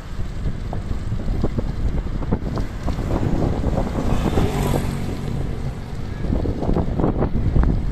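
Wind buffeting the microphone of a moving electric bicycle, with low road rumble and small knocks from bumps. About halfway there is a brief louder swell with a hum and a hiss.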